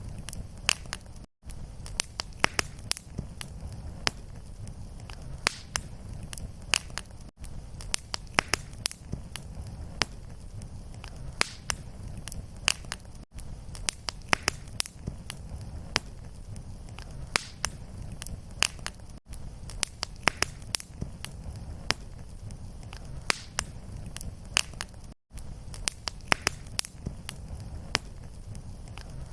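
Fireplace fire crackling: many sharp pops and snaps over a steady low rumble of flame. The sound cuts out briefly about every six seconds.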